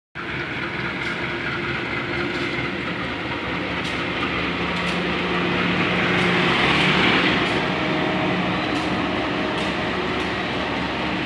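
Local passenger train pulling out of a station: a steady engine hum under the noise of the moving train, with faint wheel clicks and a swell in loudness about six to seven seconds in.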